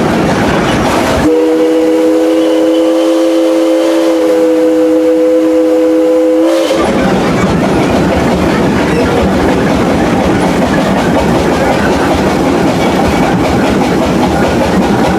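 Train running over the track with clickety-clack, broken about a second in by a multi-tone steam locomotive whistle chord held for about five seconds, then the running noise resumes.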